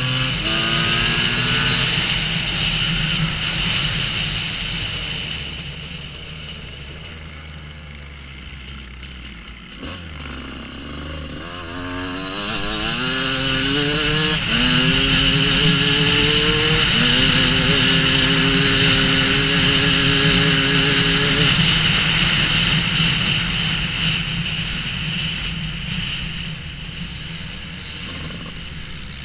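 Husqvarna WR250 two-stroke enduro motorcycle engine accelerating, its pitch climbing and dropping back at each upshift. It eases off and quietens for a few seconds, then pulls hard again through about three gear changes, holds a steady speed and fades near the end.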